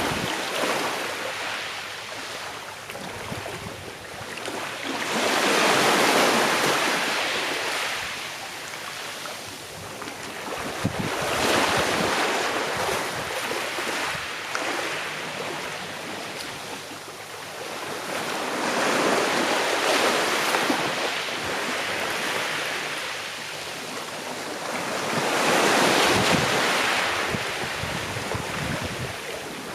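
Sea waves washing onto a shore, each wave swelling into a hiss and then ebbing, about one every six or seven seconds.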